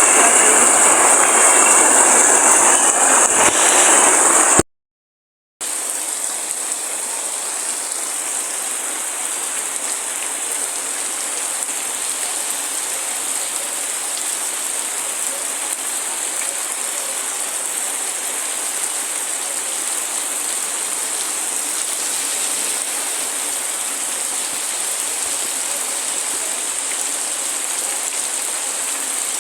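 Steady rain noise, an even hiss with no separate drops or thunder. About four and a half seconds in, a louder, fuller rushing noise cuts off into a second of silence. The quieter, steady rain hiss then takes over and runs on unchanged.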